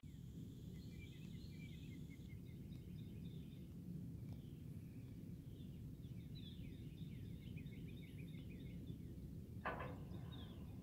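Songbirds chirping and trilling faintly over a low steady rumble, with one short sound near the end.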